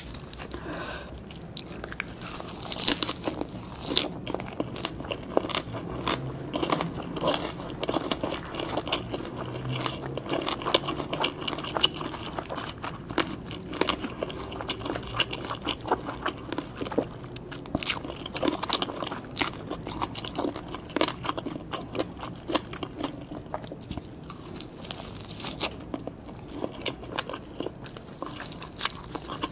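Continuous crisp crunching and chewing of a lettuce wrap of spicy green papaya salad (shredded raw green papaya, long beans) with raw salmon, a bite-and-chew eating sound with many irregular crunches.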